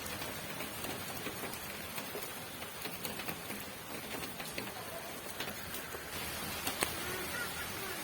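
Steady rain falling, with scattered individual drops ticking through the hiss and one sharper drip about seven seconds in.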